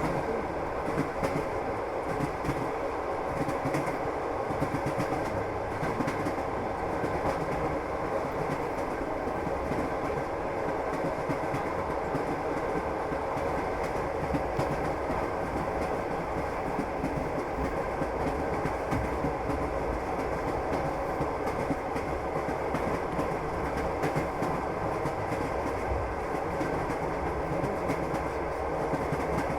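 Passenger train running steadily, heard from inside the carriage: a continuous rumble of wheels on the rails with scattered clicks as the wheels pass over rail joints.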